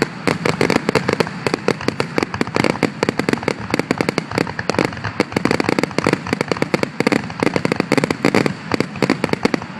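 Fireworks finale barrage: a dense, unbroken string of rapid bangs and crackles from many shells going off together, several per second.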